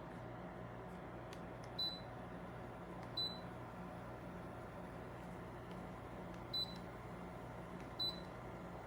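Confortotal 12000 BTU mini split air conditioner beeping four times with short, high beeps spaced unevenly a second or more apart, over a steady low hum.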